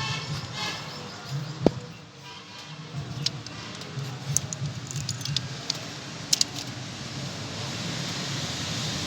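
Scattered metallic clinks and knocks of hand tools and engine parts as timing chain guides are fitted on an open diesel engine, with a sharper knock about two seconds in and a quick double clink past six seconds. A steady hiss builds near the end.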